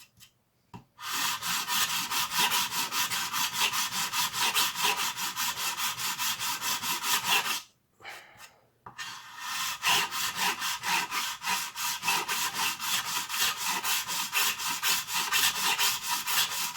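Hand file rasping on hard plastic in rapid back-and-forth strokes, in two long runs with a brief pause between. The sound changes as the file cuts through the blaster's plastic into the 3D printed part beneath, the sign that filing on this side is done.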